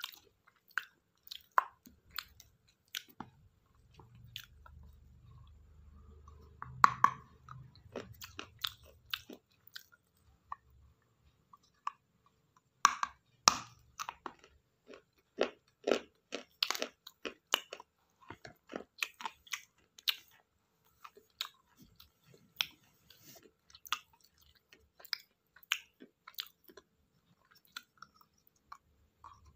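Pieces of broken clay pot being bitten and chewed close to the microphone: a long run of sharp, irregular crunches.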